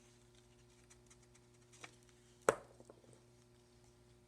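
Light clicks and taps of a glue stick and paper craft pieces being handled on a tabletop, with one sharper tap about two and a half seconds in and a few small ticks after it, over a faint steady hum.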